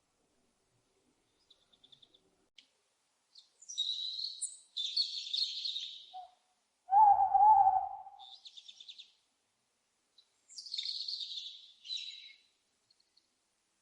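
Owl calls: several high-pitched screeching, chirping calls, and one loud, lower hoot lasting about a second, about seven seconds in.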